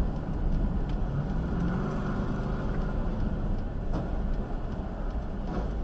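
A car's engine and tyre noise heard from inside while driving: a steady rumble with a few faint ticks.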